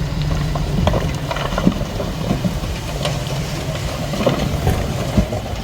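Heavy diesel earthmoving machinery running steadily, with a handful of sharp clanks and knocks scattered through it.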